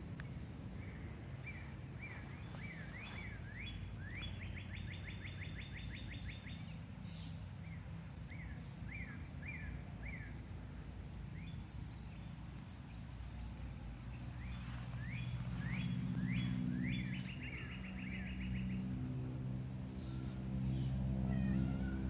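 A songbird singing two phrases, each a run of quick rising chirps that speeds into a rapid trill, over a steady low rumble.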